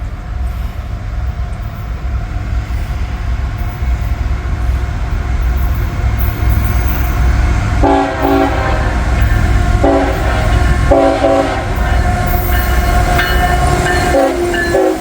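CSX diesel freight locomotive approaching, its low engine rumble growing louder. About eight seconds in its air horn sounds four blasts, the last held longest.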